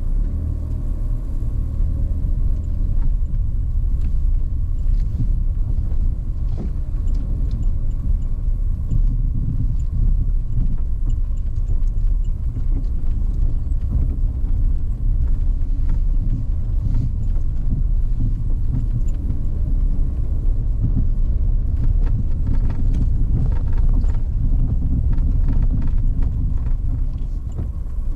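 A car driving along, a steady low rumble of engine and road noise with scattered small knocks and clicks.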